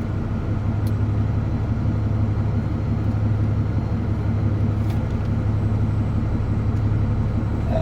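Steady low drone of a DAF truck's diesel engine and road noise, heard inside the cab while driving, with a couple of faint clicks.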